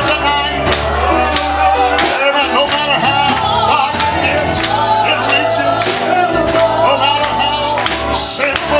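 Live gospel song: voices singing over band accompaniment, with a bass line and regular drum and cymbal hits.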